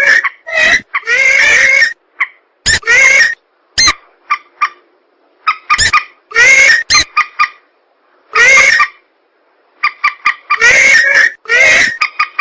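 Lure-call recording of swamp birds (mandar rails and pelan) calling in loud, harsh bursts, each a quarter to one second long and repeated about a dozen times, with dead-silent gaps between them.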